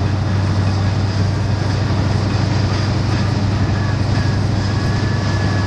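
Truck driving on a snowy road, heard from inside the cab: a steady low engine and road drone. A faint high steady whine joins about three seconds in.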